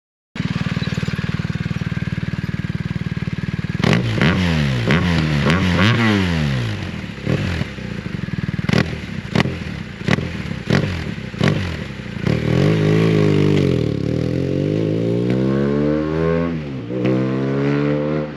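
BMW R 1250 GS Adventure's boxer-twin engine idling for a few seconds, then revved in quick blips with sharp exhaust cracks between them. Near the end come longer revs that rise and fall in pitch.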